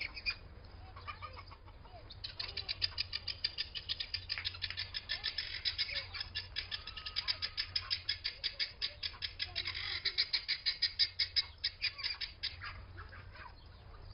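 A bird's rapid chattering call, a fast run of short, evenly spaced chirps, roughly eight to ten a second. It starts about two seconds in and goes on for about eleven seconds.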